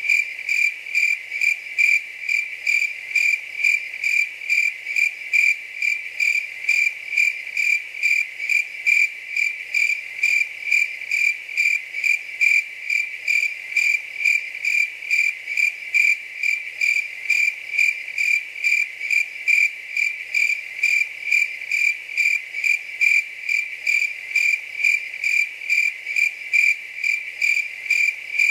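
A cricket chirping in a steady, even rhythm of about two chirps a second, each chirp a single high, clear note.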